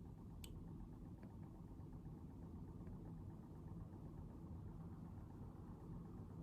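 Faint, steady low rumble of room background noise, with one sharp click about half a second in and a few fainter ticks after it.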